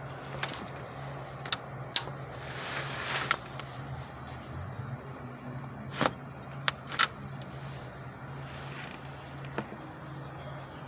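Steady low hum of an idling vehicle engine, with several sharp clicks and rattles and a brief rustling noise about two to three seconds in.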